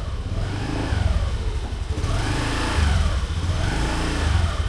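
A motor vehicle engine running with a low rumble, its pitch rising and falling about three times as it revs up and eases off.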